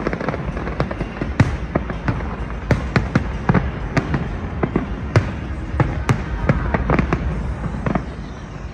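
Large fireworks display: a dense run of sharp bangs and pops at irregular intervals, several a second, over a steady low background rumble.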